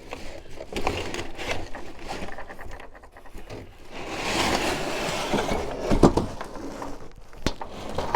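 Cardboard box and packing scraping and rustling as a heater panel is worked out of its tight box, with a longer sliding scrape about halfway through and a few sharp knocks near the end.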